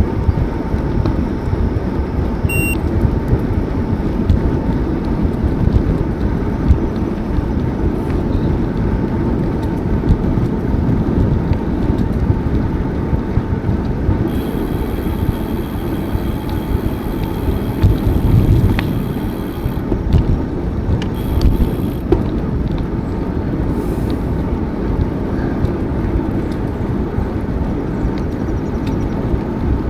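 Wind buffeting the microphone during a bicycle ride: a loud, unsteady low rumble. A faint, thin, high steady tone rides over it for several seconds midway.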